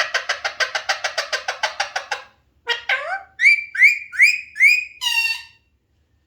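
Alexandrine parakeet calling: a rapid run of short harsh calls, about eight a second, for the first two seconds, then after a short pause four rising squawks and a harsher call, then silence for the last second.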